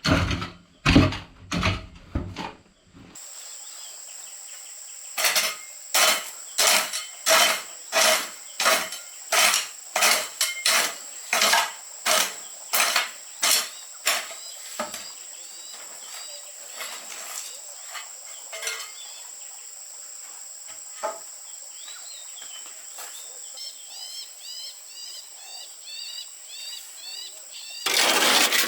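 A hand tool striking hard material in a steady series of blows, about one and a half a second for some ten seconds, after a few louder clattering knocks at the start. A steady high insect drone runs underneath, with a few bird chirps near the end.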